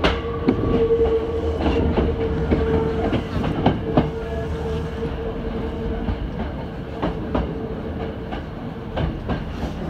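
Hankyu 7000-series train pulling out of a station, heard from inside the car: wheels clicking over rail joints and points over a steady running rumble, with a steady whine that fades away about six seconds in.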